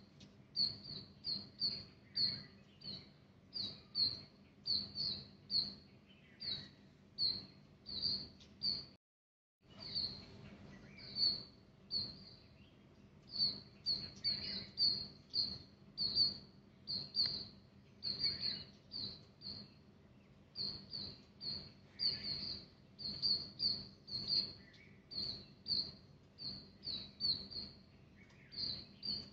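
Small bird chirping over and over in short, high, quick notes, two to four a second, breaking off for about half a second around nine seconds in.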